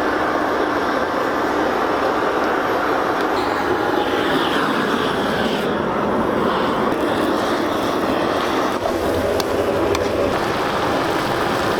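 A pot boiling hard over a strong flame, a steady rushing, bubbling noise, with a couple of faint clicks near the end.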